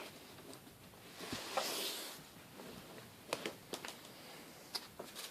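Faint handling noises: a brief rustle about a second in, then a few light clicks and taps.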